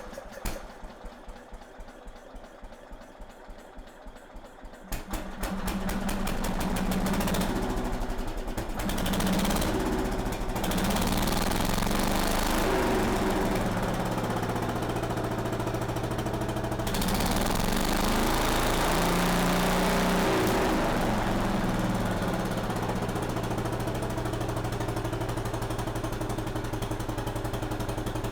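Briggs & Stratton engine of a 1953 Economy Country Squire garden tractor running. After a few quieter seconds it comes up to speed about five seconds in, then its speed rises and falls before it settles to a steady run.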